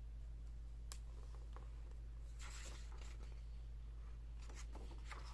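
Faint paper rustling and a few soft clicks as a large hardcover book with thick pages is handled and its pages are turned, over a steady low hum.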